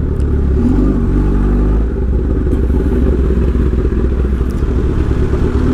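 Motorcycle engine running under a strong, steady low rumble.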